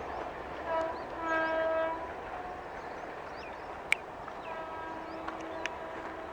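Train horn sounding: a short blast, then a longer one of under a second, and later a fainter held note. A single sharp click comes near the middle.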